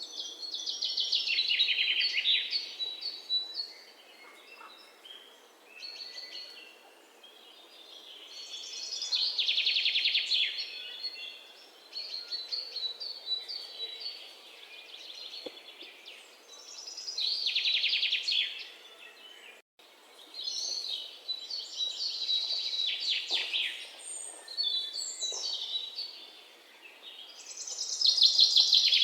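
A bird singing: loud phrases of rapid, trilled chirps that come back about every eight seconds, with quieter chirps in between, over a faint background hiss.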